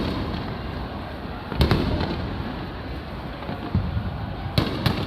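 Aerial firework shells bursting overhead, booming with a low rumble after each. A pair of booms comes about a second and a half in, a softer thump near the middle and another pair near the end.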